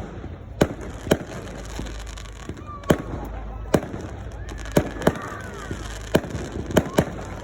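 Fireworks going off in a display: sharp single bangs at irregular intervals, roughly one a second, coming closer together near the end.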